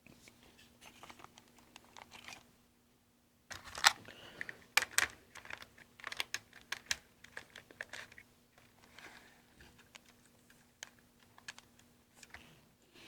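Light, irregular clicks and clatter of small plastic parts as an HO scale model locomotive is handled and set on the track, busiest in the middle, over a faint steady hum.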